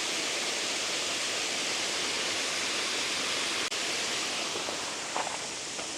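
Tutumangaeo Falls rushing, a steady even roar of falling water, with a few faint clicks near the end.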